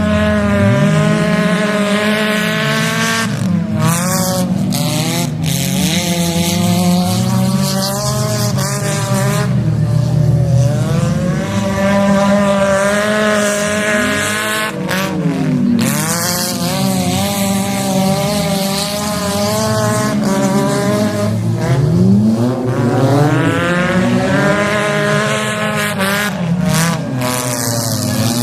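Demolition derby cars' engines revving hard, the pitch climbing and dropping over and over as the cars accelerate and back off, with more than one engine going at once.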